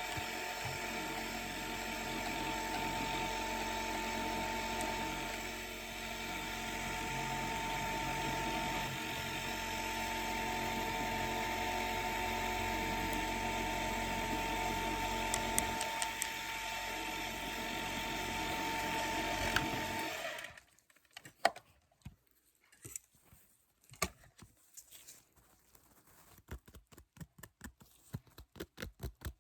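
Dental drill running with a steady high whine, then stopping suddenly about twenty seconds in. Scattered light clicks and taps follow, turning into rapid taps near the end.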